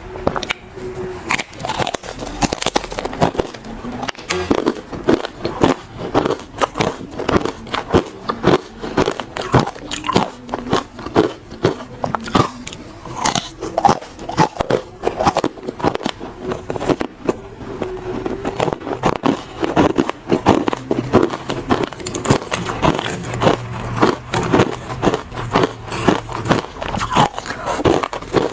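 Close-miked biting and chewing of hard frozen ice: a dense run of sharp crunches and cracks, several a second, that never pauses.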